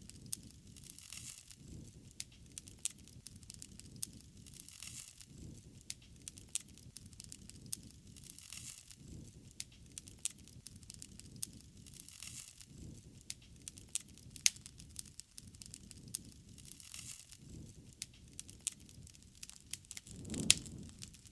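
Wood fire crackling, with irregular sharp snaps and pops and a louder pop near the end.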